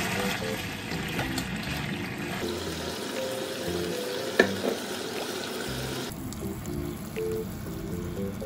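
Chicken pieces sizzling in sauce in a nonstick frying pan, a steady crackling hiss that thins out about two-thirds of the way through, with a single sharp click near the middle. Soft background music with short plucked notes runs underneath.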